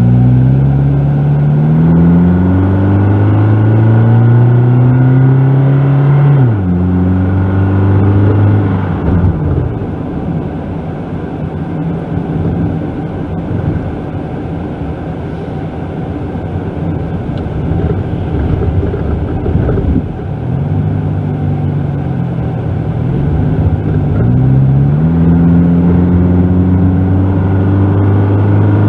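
1999 Toyota Camry's engine heard from inside the cabin while driving, an engine the owner says has a noisy cylinder. It rises in pitch as the car accelerates and drops sharply at a gear shift about six and a half seconds in. It then runs steadier under road noise, dips and climbs again after about twenty seconds, and settles into a steady run near the end.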